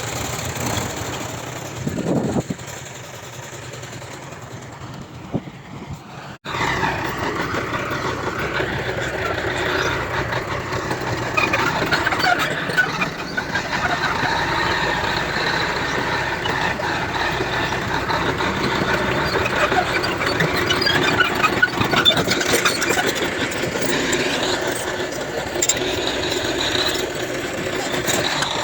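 Heavy earthmoving machinery running, a diesel engine with mechanical clatter. The sound cuts off abruptly about six seconds in and comes back louder and busier, with many short clanks.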